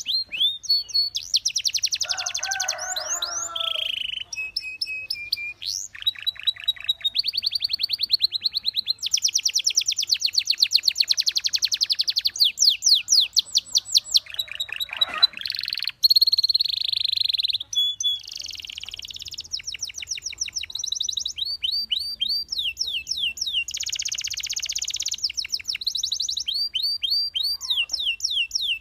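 Belgian canary singing a long, continuous song of fast trills and rolls, switching to a new repeated phrase every second or two.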